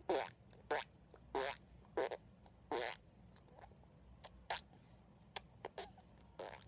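Short sputtering mouth noises, blown raspberries, about a dozen in quick irregular succession, louder in the first three seconds and fainter after.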